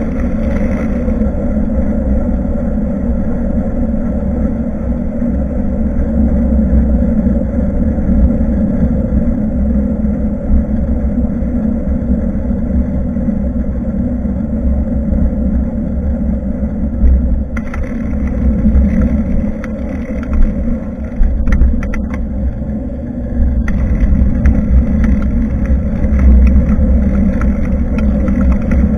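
Steady wind and road rumble picked up by a bicycle-mounted action camera while riding, with a run of short clicks and knocks, the bike jolting over the road surface, between about 17 and 24 seconds in.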